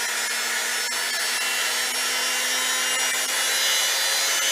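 Singer 247 sewing machine's electric motor running at a steady speed on the foot controller: an even hum over a whirring hiss. The machine is unserviced but still sounds pretty good.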